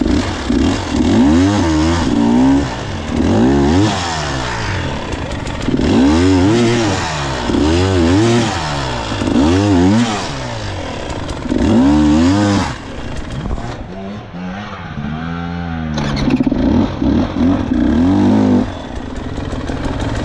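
Two-stroke KTM dirt bike engine revving hard in repeated surges, each rising and falling within a second or two, as the bike claws up a steep hard-enduro climb. Around two-thirds of the way through the revs drop lower for a few seconds, then surge again in quick bursts before settling to a lower, steadier running note near the end.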